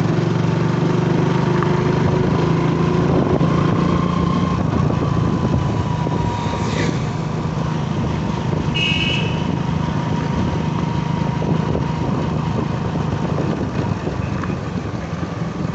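Motorcycle engine running steadily under way, with rushing road and wind noise. A short, high-pitched sound cuts in about 9 seconds in.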